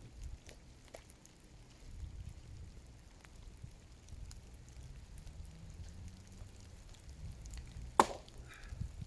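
An axe strikes dead wood once, sharply, about eight seconds in, over a low rumble and a few faint ticks.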